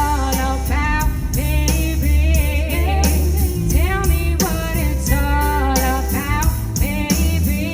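A female vocalist singing live over amplified accompaniment, with heavy bass and a steady beat of cymbal-like hits.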